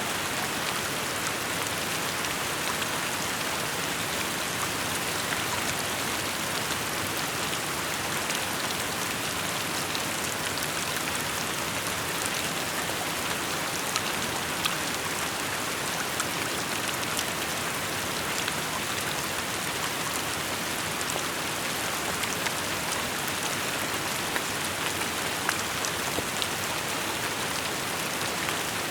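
Steady rainfall, a constant hiss of rain with scattered individual drops pattering on surfaces.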